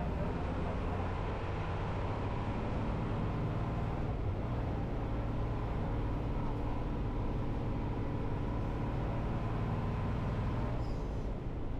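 City bus engine running steadily with road noise.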